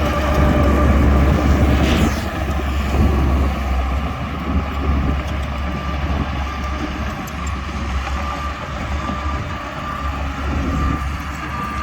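Bulldozer's diesel engine running under load with a heavy low rumble. It eases off about two seconds in, over a thin steady whine.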